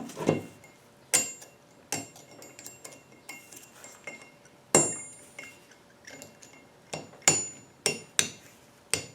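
Hammer tapping a steel punch against a stuck fastener in the axle that has nothing left to grip, trying to shock it loose. There are about a dozen sharp metallic strikes, each with a brief ring. They come at uneven intervals and bunch up faster near the end.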